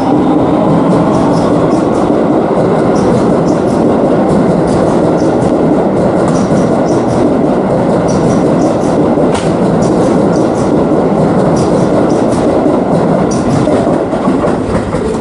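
Electric train running along the track: a steady loud rumble with frequent clicks of the wheels over the rails.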